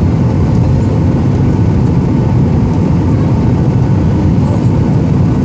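Airliner jet engines at takeoff power, heard from inside the cabin as a loud, steady, low roar.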